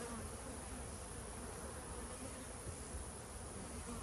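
Honeybees buzzing steadily in the air around the hives.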